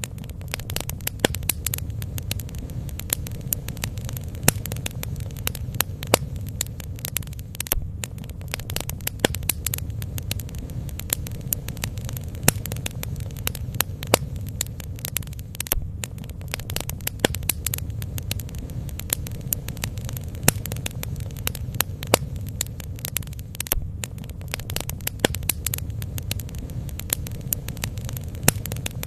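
Bonfire burning: irregular sharp crackles and pops from the burning wood over a steady low rumble.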